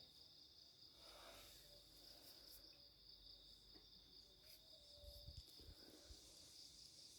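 Faint, steady chorus of crickets, a continuous high-pitched trill.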